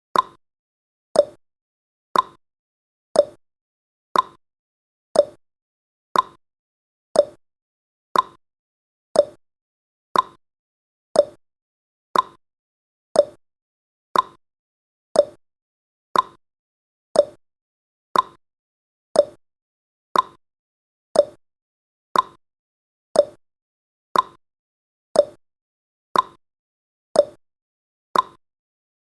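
Countdown timer's tick sound effect: one short, sharp click every second, evenly paced.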